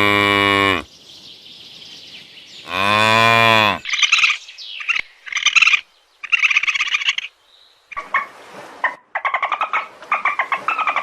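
A cow mooing, one long call ending about a second in and a second shorter moo about three seconds in, followed by small birds chirping in short bouts that become a rapid chatter in the last few seconds.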